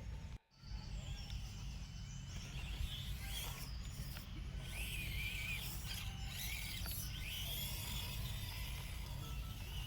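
Micro-scale RC crawler's small electric motor and gears whining in several short bursts, each rising, holding and dropping away as the truck creeps along, over a steady low rumble of outdoor background noise.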